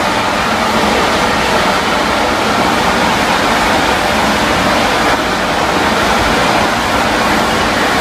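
Steam locomotive releasing its boiler pressure, a loud, steady hiss of escaping steam.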